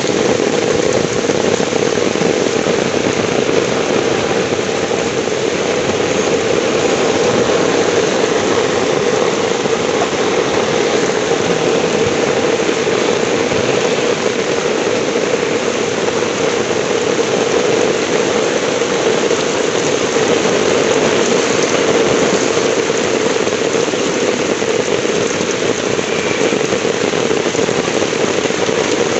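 Heavy rain pouring steadily, a loud, even hiss with no breaks.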